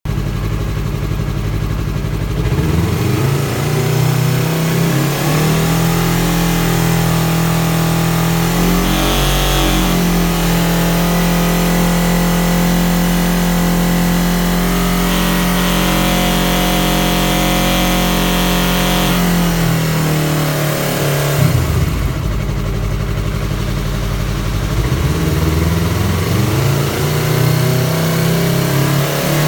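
Yamaha R3's parallel-twin engine revved up from idle and held steady at raised revs for about fifteen seconds, then let drop and revved again. It is making a buzzing noise that shows up at about 5500 rpm.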